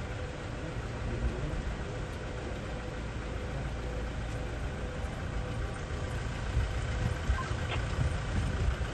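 Steady low engine rumble, like vehicles running at idle, with a faint steady hum.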